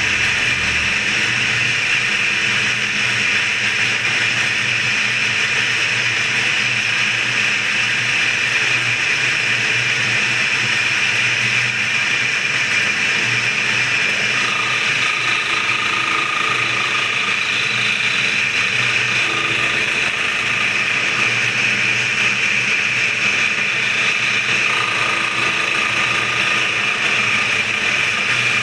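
Steady running of a powered machine skimming the face of a Yamaha V80 engine block, with a faint high tone that comes in twice, about halfway through and again near the end.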